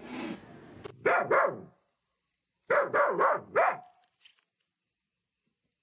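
A dog barking in short barks: two about a second in, then four quick ones around three seconds in, after which it stops.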